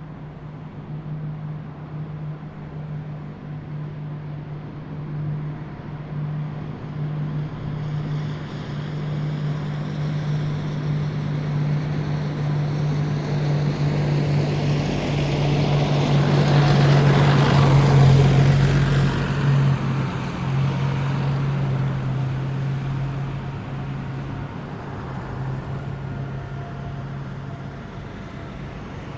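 A heavy military vehicle driving past: its engine and road noise build up, peak about two-thirds of the way through, then fade, over a steady low hum, with a faint high whine at the loudest point.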